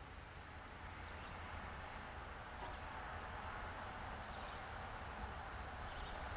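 Faint, steady outdoor background: a low rumble under a light hiss, with no distinct events.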